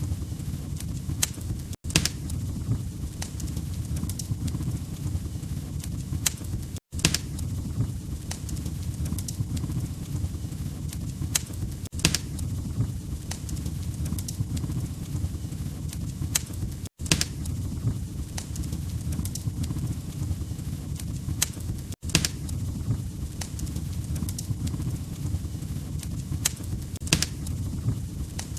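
Log fire crackling in a fireplace: irregular sharp pops and snaps over a steady low rumble. The sound drops out for an instant about every five seconds, as at the seam of a short loop.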